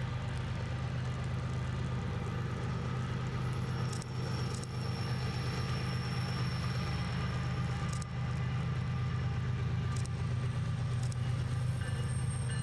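Freight train passing with a steady low rumble, with a few sharp clicks about four, eight and ten seconds in and more near the end.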